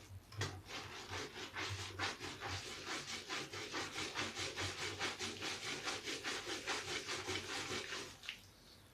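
A large sponge is lathered and squeezed with soap scraps, making fast, even rubbing strokes at about three or four a second. The strokes stop about eight seconds in.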